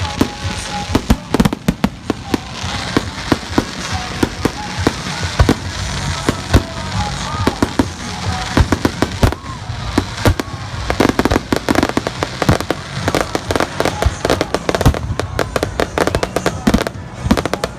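Fireworks display: a continuous run of bangs and crackles, growing denser and quicker in the second half into a rapid barrage.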